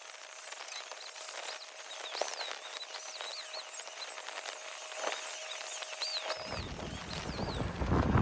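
Quiet outdoor background with a faint steady hum and a series of short, high chirping whistles. From about six seconds in, wind rumbles on the microphone.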